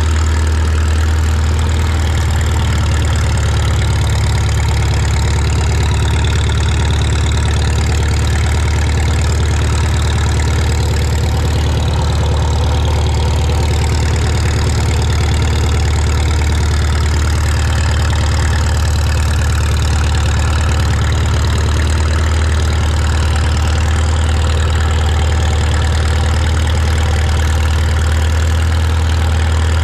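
An engine idling steadily, with a strong, constant low hum that does not change in speed.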